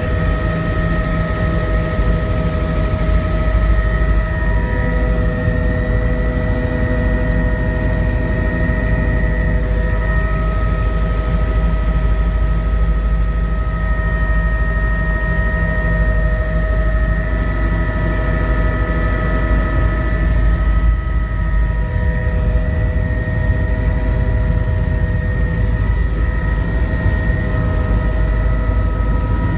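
Helicopter in flight: steady engine and rotor noise, a deep rumble under a steady multi-tone whine.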